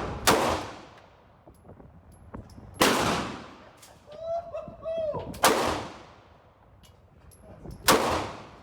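Four single gunshots from slow aimed target fire, about two and a half seconds apart, each trailing off in an echo.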